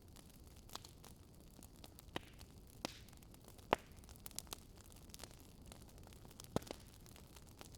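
Fire crackling in a fireplace: scattered sharp pops and snaps over a faint steady hiss, the loudest pop a little past the middle.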